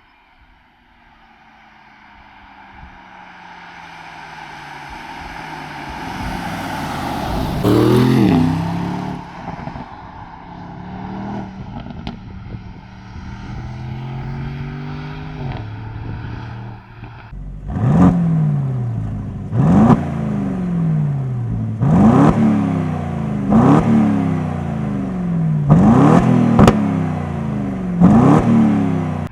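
Aston Martin Vantage S twin-turbo V8 engine, its sound building over the first eight seconds. In the second half it revs in a run of quick bursts about every two seconds, each opening with a sharp crack.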